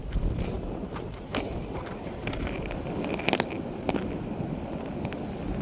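Roller skate wheels rolling on pavement: a steady low rumble with scattered sharp clicks.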